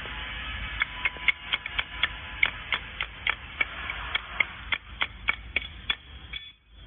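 Automatic spot welding machine cycling on small metal lock parts: a rapid run of about twenty sharp snaps, roughly three or four a second, over a steady machine noise.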